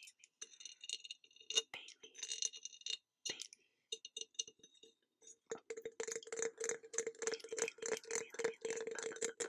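Close-up ASMR trigger sounds: scattered crisp clicks and taps, then from about halfway a fast, dense run of clicks.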